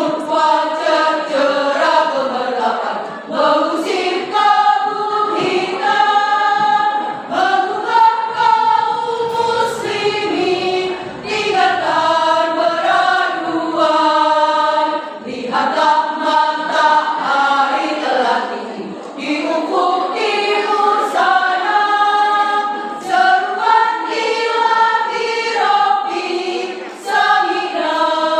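A women's choir singing in several voice parts, holding chords that move together every second or so, with no instrument standing out.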